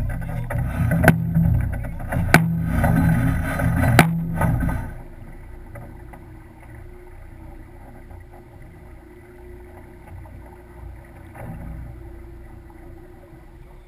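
Sailing yacht under way: loud rushing wind and water noise with a few sharp knocks in the first seconds, dropping suddenly after about five seconds to a quieter steady hiss.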